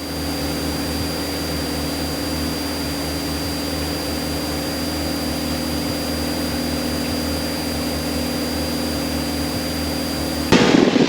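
Steady drone of a single-engine piston airplane's engine at climb power, heard from inside the cockpit. Near the end comes a loud crackling burst lasting about a second.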